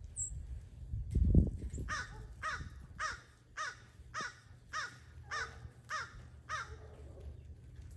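A bird giving a series of about nine evenly spaced calls, roughly two a second, each a short rising-and-falling note. A low thump, the loudest sound, comes just before the calls start.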